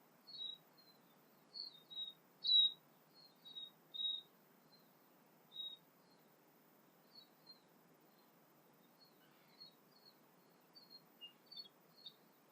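Songbirds chirping in short, high notes over a faint steady hiss. The notes come thick in the first half, with the loudest about two and a half seconds in, then thin out into scattered chirps.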